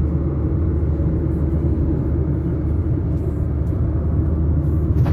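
A car's engine and road noise, a steady low rumble, with a sharp click near the end.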